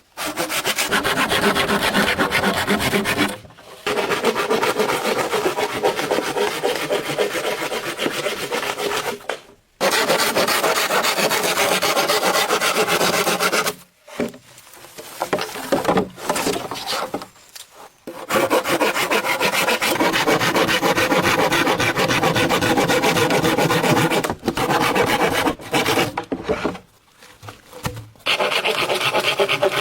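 Bamboo being sawn by hand, in long runs of rapid back-and-forth strokes broken by brief pauses, with a few choppier stretches partway through.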